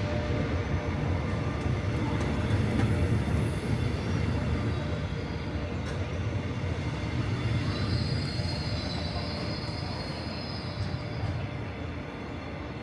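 S-Train passenger train pulling out of the station, its wheels rumbling over the rails and slowly fading as it moves away. A high wheel squeal sounds for a few seconds past the middle.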